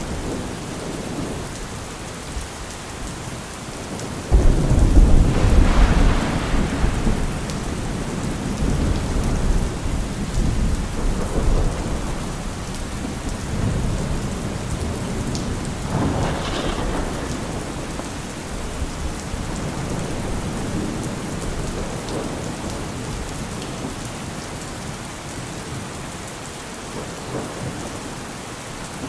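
Steady heavy rain with a thunderclap about four seconds in that rolls on as low rumbling for several seconds, and a second, weaker rumble of thunder around sixteen seconds in.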